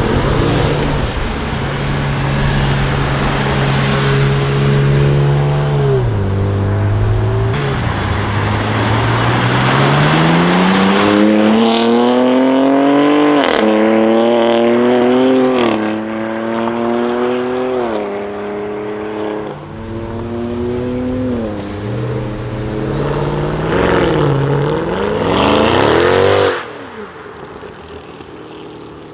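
Modified car engine accelerating hard through the gears: the engine note climbs and drops back at each of several quick upshifts. Near the end come a couple of short revs, and then the engine sound falls away.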